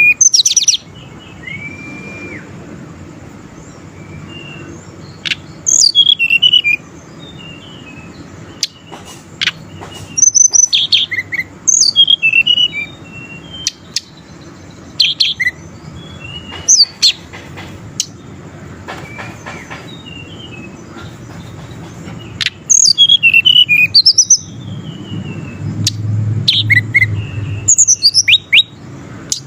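Tledekan gunung (Sunda robin) singing loudly in bursts of quick, falling whistled notes, a new phrase every few seconds, over a steady low hum.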